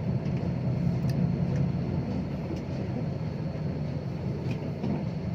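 Six-wheel dump truck's diesel engine running steadily at low speed, with a few faint light clicks.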